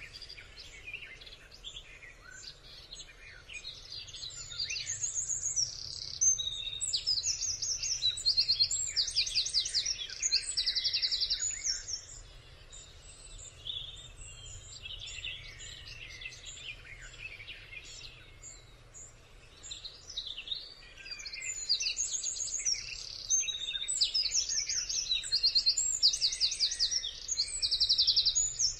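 Birdsong: high chirps and rapid trills in short phrases, coming in two busy spells with sparser calls between.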